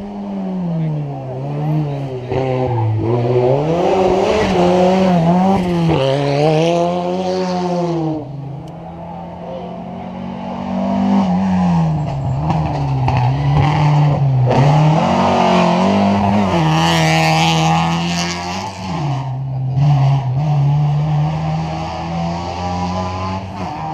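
Historic rally car's engine revving hard on a special stage, its pitch rising and falling again and again through gear changes and lifts off the throttle, with a quieter stretch about a third of the way in.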